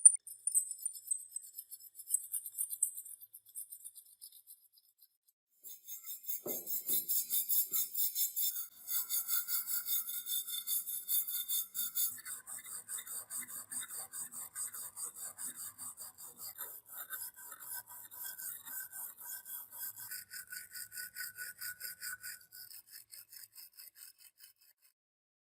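Rapid, even back-and-forth abrading strokes on rusty metal, several a second, from hand rust removal such as filing or brushing. They start about six seconds in, after a few light clinks, and stop shortly before the end.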